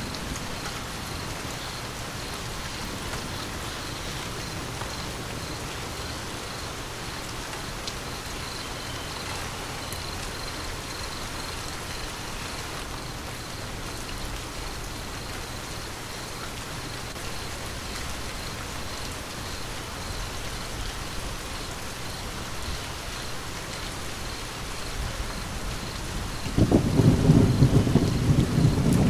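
Steady rain falling, then a loud low thunder rumble breaking in near the end.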